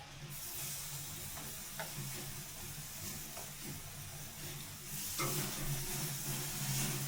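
Food sizzling in a frying pan, a steady hiss over a low hum, with a faint click or two.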